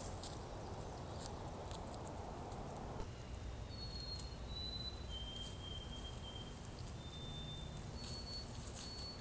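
A series of faint, pure whistled notes, each held about half a second to a second at a slightly different pitch, typical of a songbird, over steady low background hiss. There are a few faint clicks in the first seconds.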